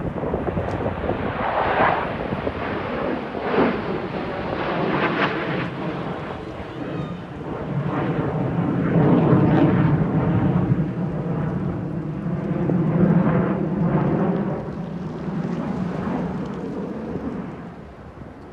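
Thunderbirds F-16 fighter jet flying past, a loud engine noise that builds to its loudest about halfway through and fades near the end.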